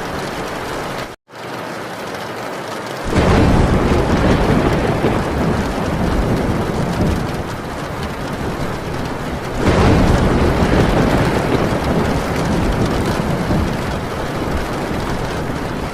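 Heavy rain falling on a tin roof, with two long rolls of thunder, one starting about three seconds in and another about ten seconds in. The sound cuts out for a split second about a second in.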